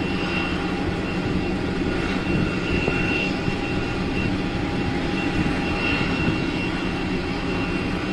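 Jet aircraft engines running steadily: an even rumble with a faint high whine.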